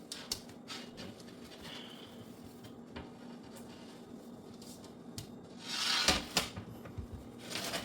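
Wiping and rubbing as a refrigerator part is dried off by hand, with light clicks and knocks from handling it; a louder swishing rub comes about six seconds in.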